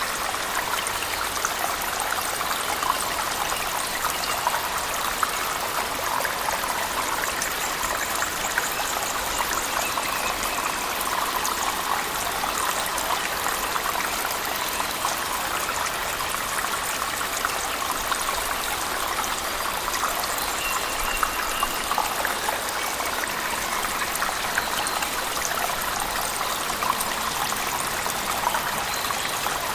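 Steady splashing of a cave waterfall mixed with heavy rain, an even rush of water with many small drips and patters throughout.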